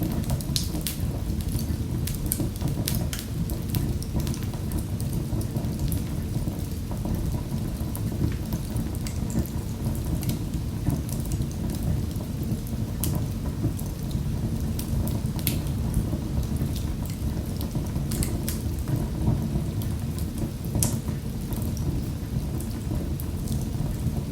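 Wood fire in a fireplace crackling, with frequent sharp irregular snaps and pops over a steady low rumble of the flames.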